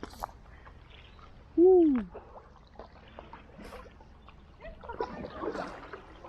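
Water trickling and dripping with small splashes, as from a stand-up paddle board paddle. About a second and a half in comes one short, loud hoot-like call that rises then falls in pitch, and faint voices come in near the end.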